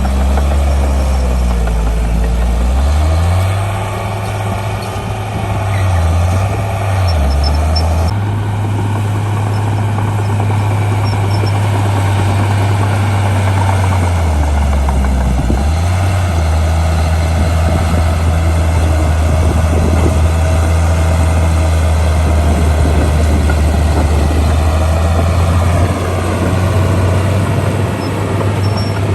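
Heavy earthmoving machine's diesel engine running, loud and deep, its note dropping and rising several times as the revs change.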